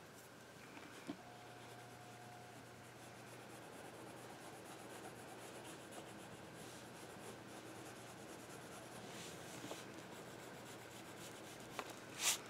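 Faint scratching of drawing strokes on paper, with a few louder scrapes near the end.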